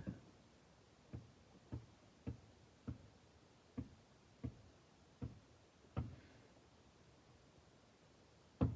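A series of faint, unevenly spaced clicks and taps, about one every half second to a second, with a louder knock near the end.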